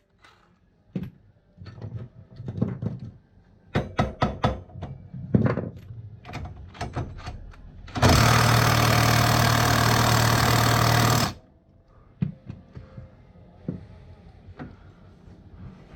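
Metal tools clanking and knocking, then a power tool runs loudly and steadily for about three seconds and stops abruptly, followed by more light knocks.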